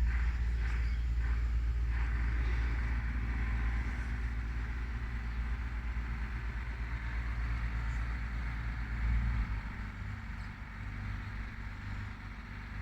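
A steady low rumble that lessens about nine and a half seconds in, with a few faint short high sounds in the first couple of seconds.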